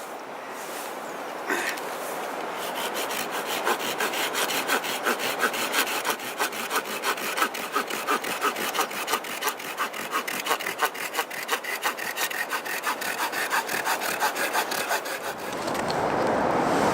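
A hand saw cutting through wood in fast, even back-and-forth strokes. The strokes stop near the end and a steady rushing noise takes over.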